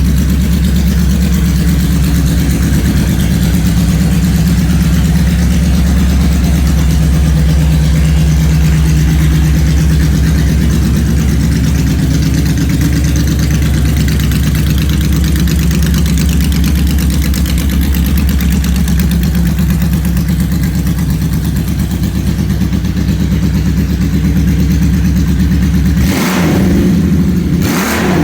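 Honda Valkyrie GL1500's flat-six engine idling steadily through straight-piped exhaust, with two short throttle blips near the end.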